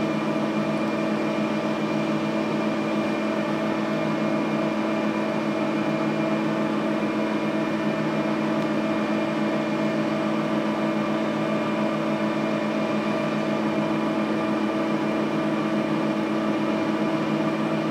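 Electric drill running steadily with an even hum, drilling into a stuck Mag-Lite flashlight end cap.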